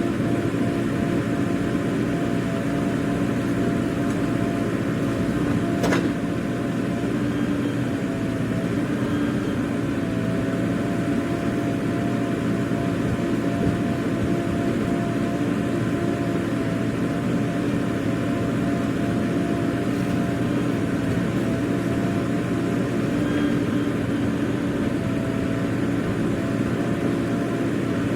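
Heavy diesel engine running steadily at a constant speed, with one sharp click about six seconds in.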